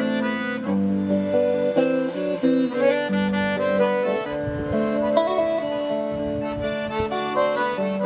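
Instrumental music played live on accordion and guitar. The accordion carries the melody in held and moving notes over plucked guitar accompaniment.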